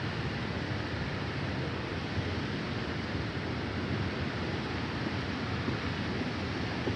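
Steady rush of a waterfall and fast-flowing creek, an even roar of water with no breaks.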